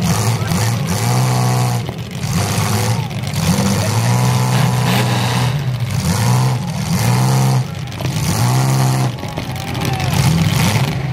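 Demolition-derby compact cars' engines running and revving several times, each rev rising and falling in pitch over about a second, over a steady engine drone.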